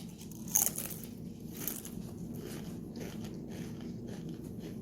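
A bite into a crunchy tortilla chip about half a second in, a second smaller crunch about a second later, then close-up chewing with faint crackles.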